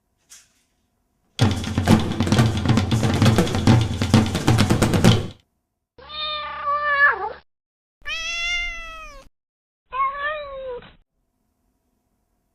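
Three meows, each a second or so long, rising and falling in pitch, spaced about two seconds apart. They are preceded by a loud, dense burst of clattering sound lasting about four seconds.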